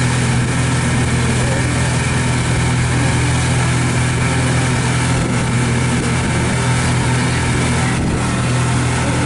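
Pontoon boat's outboard motor running at a steady pitch, with an even hiss over it.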